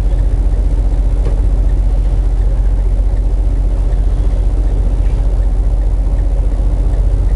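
Semi truck's diesel engine running steadily, heard from inside the cab as a deep, even drone.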